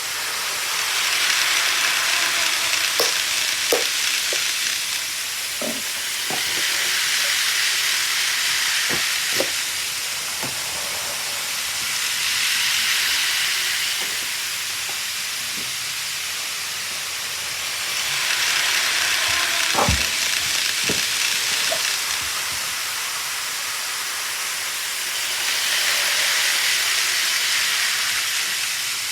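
Model train running on the layout track: a hissing running noise that swells and fades about every six seconds as it comes round, with occasional short clicks.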